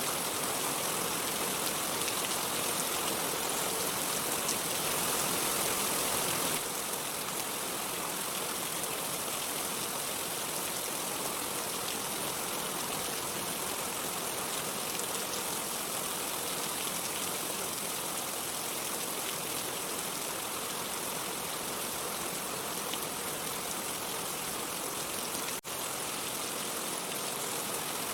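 Steady, even rainfall hiss with no thunder, with a momentary dropout near the end.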